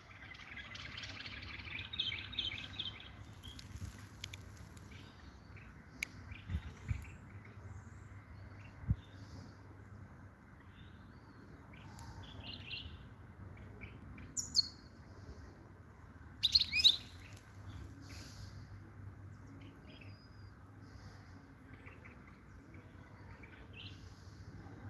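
European goldfinch twittering and chirping in short scattered phrases, with a run of twittering in the first few seconds and sharp high calls about 14 and 17 seconds in. A faint low hum sits underneath, with a few dull thumps around 6 and 9 seconds.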